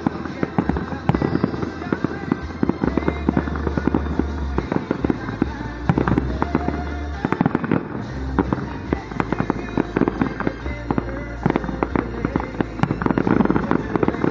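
Aerial fireworks shells bursting in rapid succession, a dense run of bangs and crackles with no gaps. Music from a radio plays underneath.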